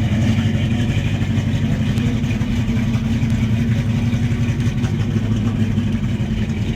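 Engine of a 1953–54 gasser-style hot rod idling steadily.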